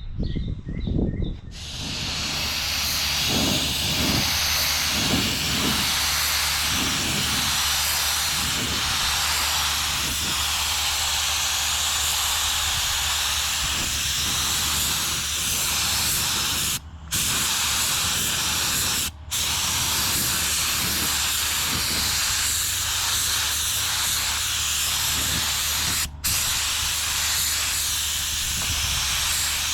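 Air spray gun shooting primer onto a car door panel: a steady hiss of air and atomised primer that starts about a second and a half in and stops briefly three times as the trigger is let off.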